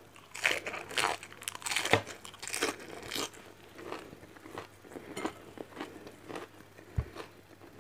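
A person chewing crunchy food with the mouth close to the microphone: a string of short, irregular crisp crunches that grow softer after the first few seconds. A single dull knock comes near the end.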